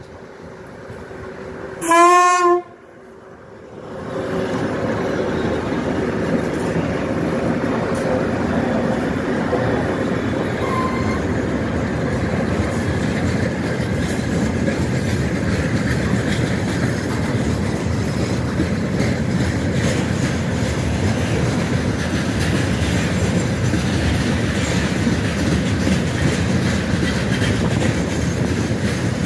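A 3TE116U diesel locomotive sounds one short horn blast about two seconds in. From about four seconds its diesel engines pass close by, followed by a long train of tank cars rolling steadily past with wheel clatter on the rail joints.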